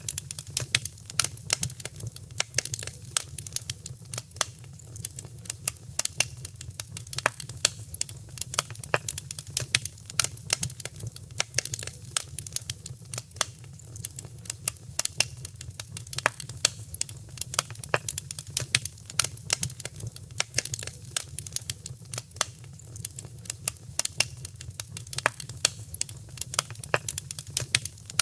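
Wood fire crackling and popping in a fireplace: a dense stream of sharp, irregular pops over a steady low rumble of the flames.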